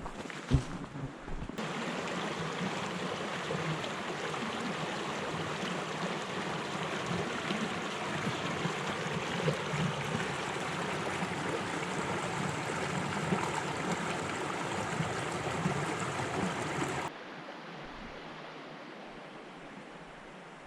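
Rushing water of a stream or rapids, a steady, even rush that cuts off abruptly near the end to a quieter hiss. A single sharp knock about half a second in.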